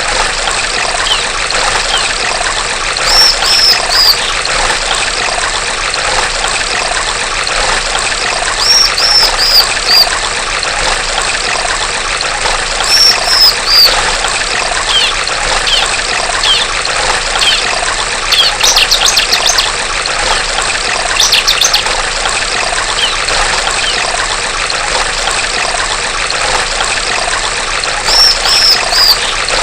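Running water trickling and splashing steadily, with a female ciblek (prinia) calling over it. The calls come as short runs of three or four high chirps that drop in pitch, repeated every few seconds, with a few looser flurries of chirps in between.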